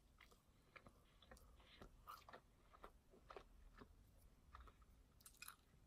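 Faint chewing of a mouthful of plain Big Mac (soft bun and beef patty), with scattered short mouth clicks and smacks.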